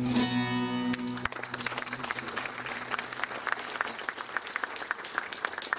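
The final held note of a Turkish zeybek folk song, voices and instruments, cuts off about a second in, and an audience claps steadily for the rest.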